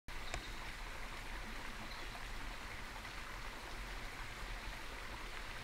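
Forest ambience: a steady, even rushing noise like running water, with a faint tick about a third of a second in.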